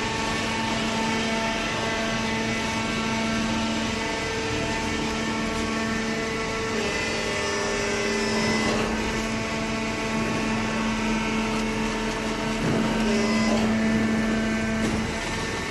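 Hydraulic cardboard baler running: the electric motor and hydraulic pump give a steady hum with a whine of several fixed tones, which shift slightly a few times as the load changes.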